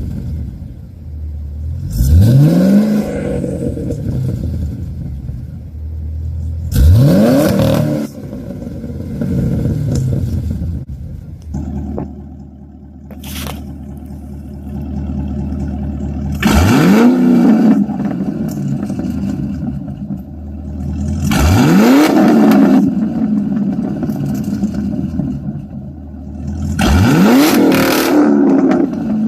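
2009 Pontiac G8 GT's 6.0-litre V8 through Kooks long-tube headers, a Borla cat-back exhaust and electric cutouts, idling and revved in five quick blips, each rising sharply and dropping back to idle.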